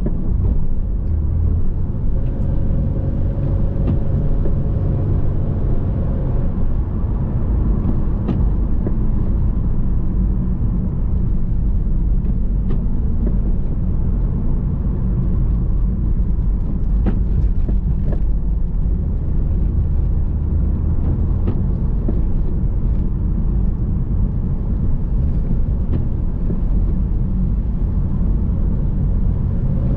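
Pontiac Firebird's engine running steadily while the car drives up a mountain road.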